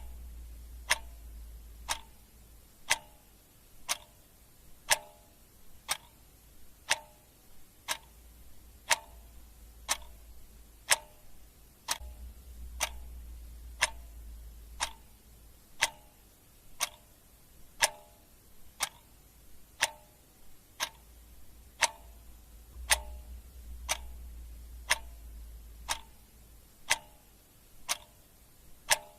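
Clock ticking steadily, about one tick a second, the ticks alternating slightly like tick and tock. A faint low hum comes and goes underneath.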